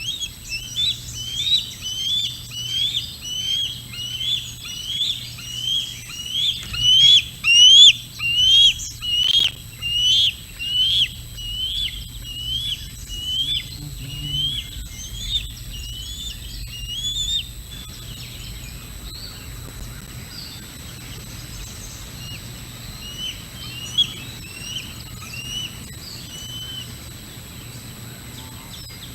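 A bird calling over and over in short, rising notes, about two a second, for the first seventeen seconds or so, then only a few scattered fainter calls.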